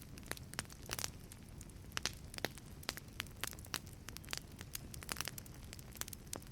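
Wood fire burning in a wood-fired pizza oven: irregular sharp crackles and pops, several a second, over a low steady rumble of the flames.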